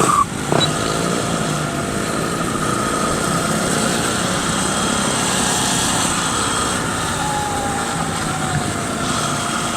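Steady riding noise on an e-bike: the hum of electric motors and tyres under way, with a faint whine that slowly drops in pitch in the last few seconds.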